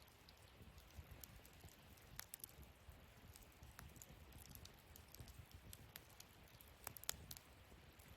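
Wood fire burning, faint, with irregular sharp crackles and pops over a soft low rumble; the sharpest pops come about two seconds in and again near seven seconds.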